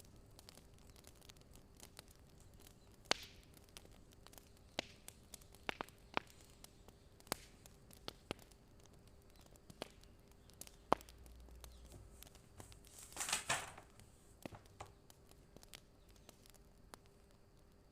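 Wood fire crackling: sparse, irregular sharp pops and snaps, with a short rustling flare about thirteen seconds in and a faint steady hum underneath.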